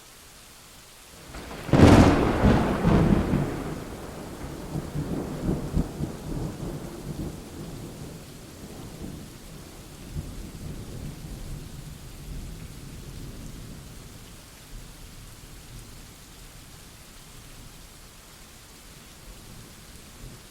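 Steady rain with a thunderclap about two seconds in: a sharp crack, then a long low rumble that rolls on in pulses and fades over about ten seconds.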